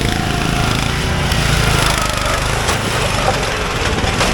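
Riding lawn mower engine running hard, modified for offroad racing, with a couple of sharp knocks in the second half.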